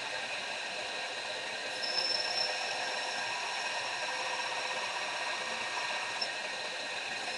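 Power grinder running steadily with a whine, dressing the steel of a hot cut chisel.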